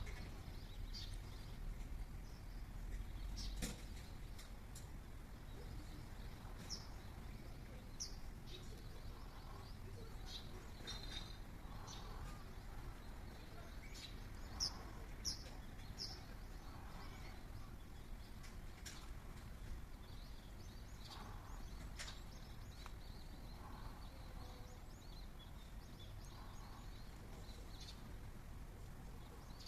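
Birds chirping now and then, with short high calls scattered through, over a low steady outdoor background rumble.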